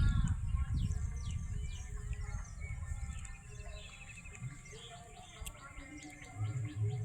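Small birds chirping and twittering in quick, short downward notes, over a low rumble that fades away during the first few seconds.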